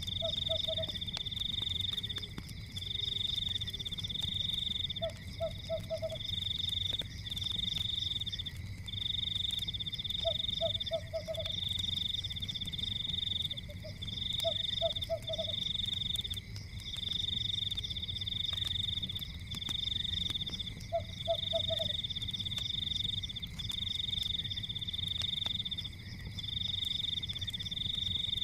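Night chorus of frogs: a high trill pulsing in bursts about a second long, with a lower croak of three or four quick notes every few seconds. Underneath run a steady low rumble and faint scattered crackles, typical of a fireplace.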